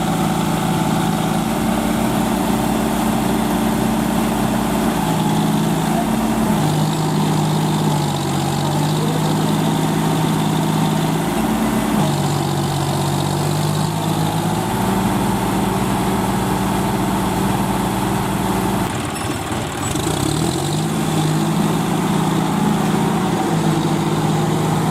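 John Deere 5045D tractor's three-cylinder diesel engine running, its pitch stepping up and down several times as the engine speed changes, with a brief drop about nineteen seconds in.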